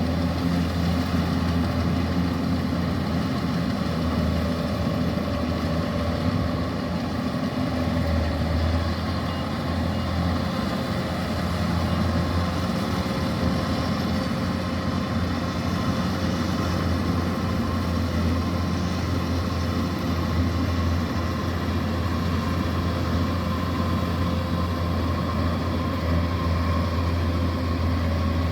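Kubota DC-105X combine harvester's diesel engine running steadily under load, a constant low drone with small swells in level.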